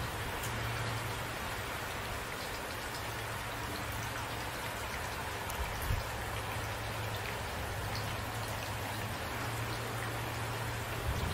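Steady rainfall, an even hiss of rain on surfaces with scattered individual drop ticks and a low background rumble, and one brief louder knock about halfway through.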